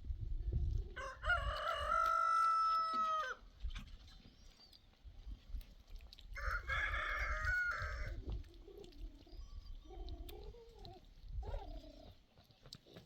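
A rooster crowing twice, about a second in and again about six seconds in, each crow lasting about two seconds.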